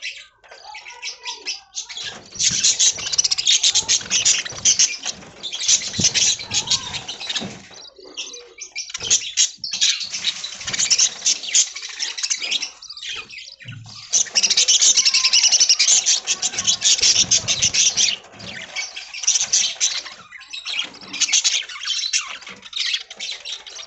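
Budgerigars chattering and warbling in busy, rapid bursts of a few seconds each, with short pauses between; the loudest stretch comes a little past the middle.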